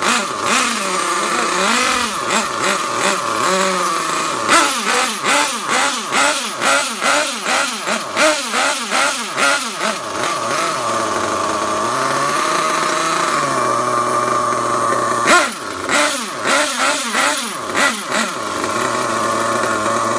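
Dynamite .28 nitro engine on an RC truggy, running rich during break-in tuning: revved in a string of short throttle blips, settling back to a steady idle in between and near the end.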